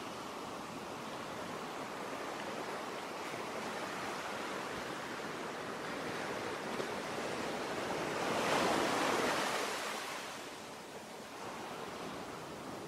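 Sea waves: a steady wash of surf, with one wave swelling and breaking louder about two-thirds of the way through, then falling away.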